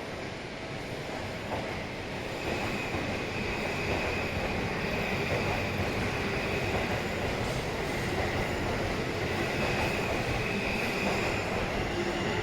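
A Tobu Skytree Line train running past, growing louder over the first few seconds and then holding steady, with a thin high whine on top.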